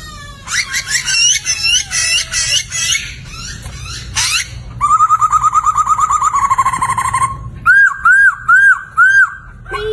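Poksay (laughingthrush) singing loudly: a varied run of repeated chattering notes, then a fast even trill lasting about two and a half seconds, then four separate arched whistles near the end.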